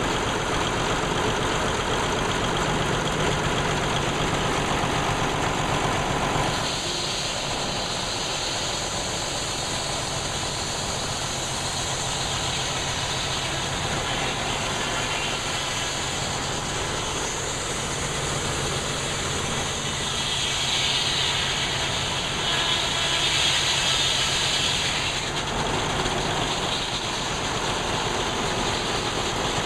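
Sawmill running: its power unit's engine running steadily under load, with a higher hiss rising about six seconds in and loudest near the end, as the saw blade works through a hard, knotty oak log.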